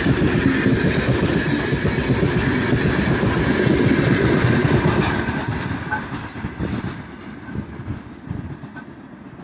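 Freight train's open gondola wagons rolling past close by, their wheels rumbling and clattering over the rails. About five and a half seconds in the last wagon has gone by, and the sound fades as the train moves away.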